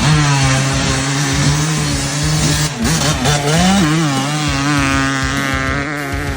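Dirt bike engine running at a steady pitch, with the throttle worked about halfway through so the note rises and falls a few times before settling again.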